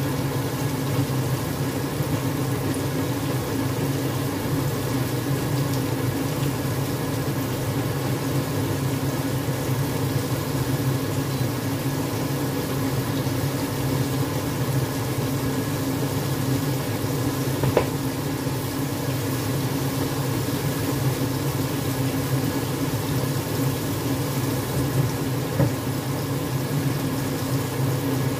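Cornstarch-coated chicken pieces frying in shallow oil in a wok, a steady sizzle over a constant low mechanical hum. One light click about two thirds of the way through.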